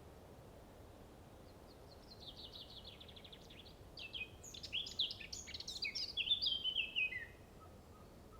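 A songbird singing one long rapid, twittering phrase of high chirps and trills. It starts about two seconds in, grows louder around the middle, and ends with falling notes about seven seconds in, over faint steady background hiss.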